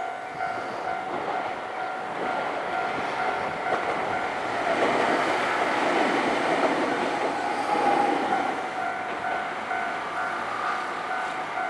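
Level-crossing warning bell ringing in steady repeated pulses while a Nankai Kada Line train passes over the crossing. The train's rumble is loudest in the middle and fades near the end.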